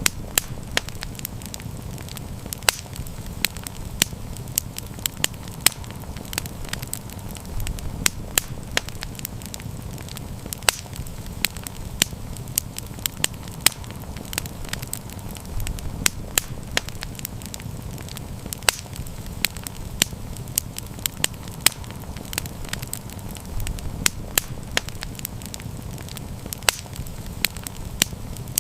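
Wood campfire burning steadily, with a low rumble of flames and frequent sharp, irregular crackles and pops.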